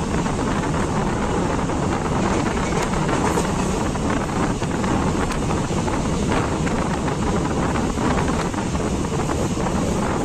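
Passenger train running along the track, a steady rumble and rattle, with wind buffeting the microphone.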